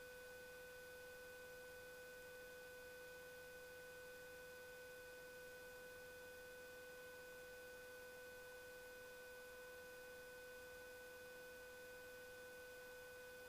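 Near silence: only a faint, steady electrical tone in the audio feed.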